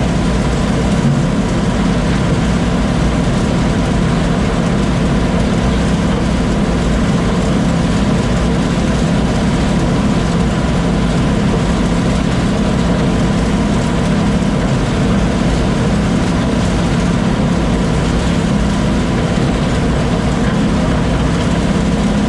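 Combine harvester running steadily under load, a dense low engine hum with a thin constant whine over it.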